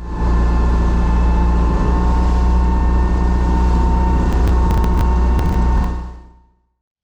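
Boat engine running steadily at speed, a deep hum with a steady tone over it, fading in at the start and out near the end; a few sharp clicks about four and a half to five and a half seconds in.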